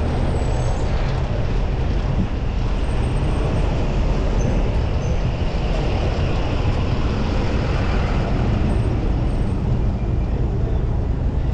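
Steady rush of wind and road noise from a bicycle ride through city traffic, heaviest in the low rumble and unbroken throughout.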